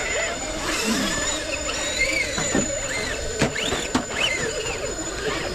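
Electric motors and gear drives of 1/10-scale RC rock crawler trucks whining as they crawl, the pitch rising and falling with the throttle.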